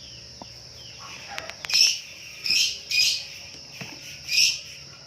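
A bird chirping in short, loud calls, several in a row, over a steady high insect drone. A few sharp clicks come about a second and a half in.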